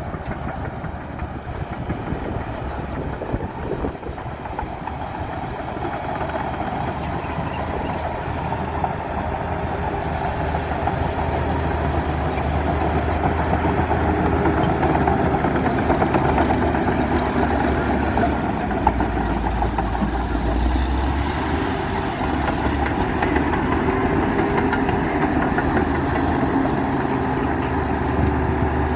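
Komatsu D60P bulldozer's diesel engine running steadily, growing gradually louder over the first half.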